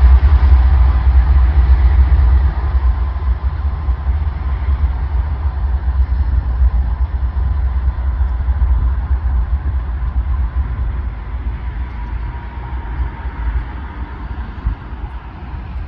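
A train passing, its heavy low rumble with a faint steady whine above it, growing steadily quieter as it moves away.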